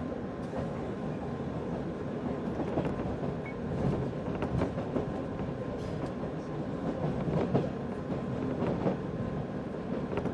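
185 series electric train running along the line, heard from on board: a steady rumble of wheels on rail with scattered sharp clicks.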